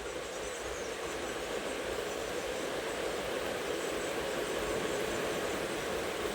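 Steady rushing of heavy rain, slowly getting a little louder.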